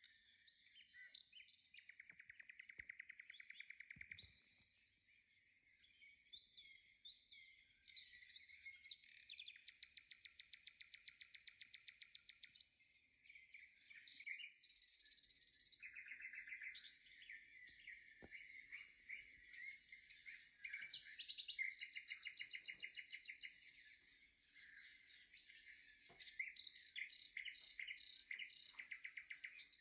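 Faint songbirds chirping, several overlapping songs with rapid trills of repeated notes, and a few faint clicks.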